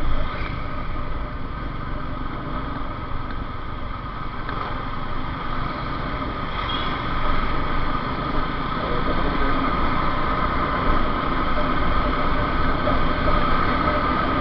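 Motorcycle being ridden: steady engine and wind noise, getting somewhat louder about halfway through.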